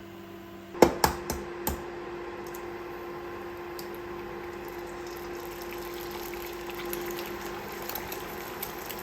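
A few quick knocks, then water running steadily from a tap.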